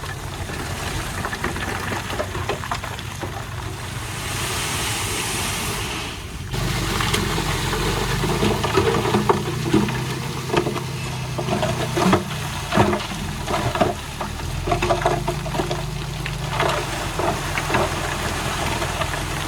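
Diesel engine of heavy earthmoving equipment running, with scattered knocks and crackles of soil and stones. A hissing rush comes about four seconds in, and the engine gets louder about six and a half seconds in.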